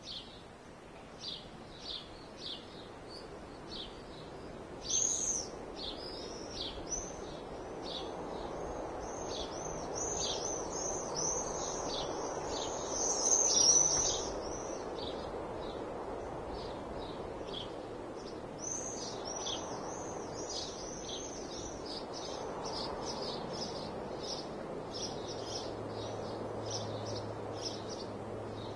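Birds chirping and singing outdoors, many short high notes in quick succession over a steady background hiss. The chirping is densest and loudest about halfway through, and a low hum comes in near the end.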